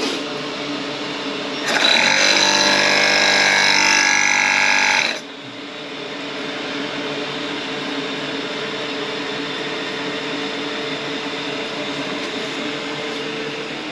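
Air-powered drain cleaner (air snake) fired into a clogged toilet drain: a loud rush of air about two seconds in, lasting about three and a half seconds and cutting off suddenly. A quieter steady hum continues underneath.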